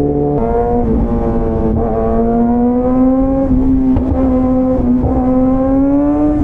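Superbike engine and exhaust running at high revs: a steady droning note that drops about half a second in, then climbs slowly, dipping briefly twice on the way up.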